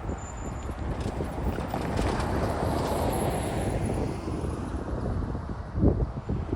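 Freight train rolling past a railroad crossing: a dense rumble of wheels and engines that swells about two to three seconds in, with a few heavy low thumps near the end.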